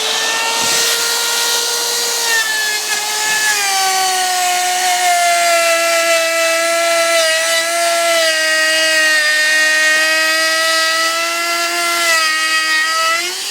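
Electric wood router running and cutting along the edge of a board: a steady high whine whose pitch drops about two to four seconds in as the bit takes the load, then rises again near the end as the cut eases off.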